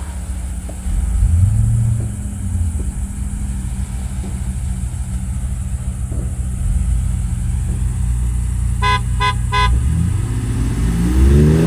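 Off-road 4x4's engine running low and steady, with three quick horn toots about nine seconds in. The engine revs up and back down near the end.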